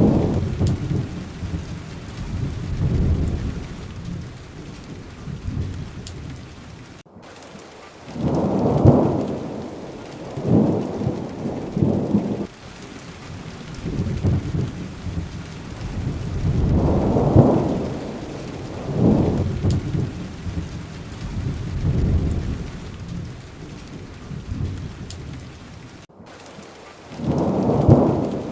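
Steady heavy rain hiss with thunder rolling and rumbling again and again, swelling every few seconds. The whole sound cuts out for an instant twice, like a splice in a looped recording.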